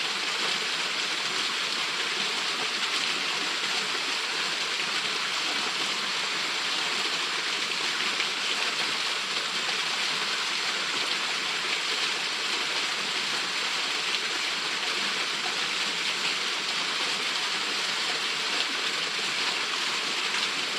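Waterfall pouring steadily, an unbroken rushing hiss of falling water.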